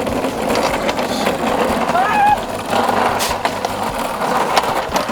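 Electric Razor mini dirt bike rolling and rattling over rough ground, with scattered knocks and clicks, and a brief wavering cry about two seconds in.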